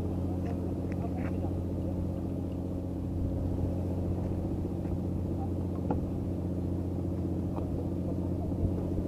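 An engine running steadily at idle: a constant low, even hum that does not change in pitch.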